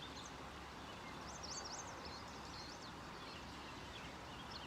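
Small birds singing, with a quick run of high chirps about a second and a half in and more twittering near the end, over the steady rush of a creek.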